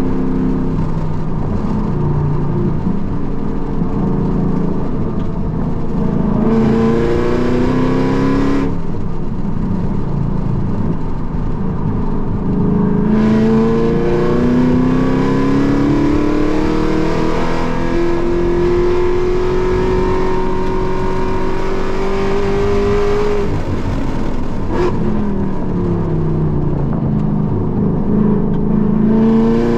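Car engine heard from inside the cabin at full throttle on a track lap. The pitch climbs for several seconds at a time, falls away under braking about three-quarters of the way through with a sharp click, then climbs again near the end.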